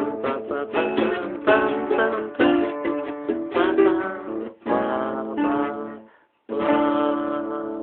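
Acoustic guitar played fingerstyle: a run of plucked notes and chords, a brief stop about six seconds in, then a chord left ringing.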